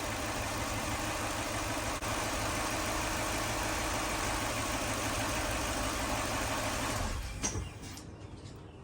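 Lexus GX470's 4.7-litre V8 idling steadily on its first start after a rebuild, running without coolant; it idles smoothly and does not sound like it is misfiring. The sound falls away about seven seconds in.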